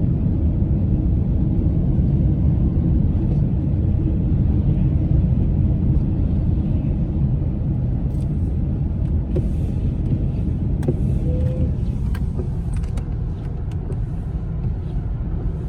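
Steady low rumble of a car driving at road speed, heard from inside the cabin, with a few faint ticks in the second half.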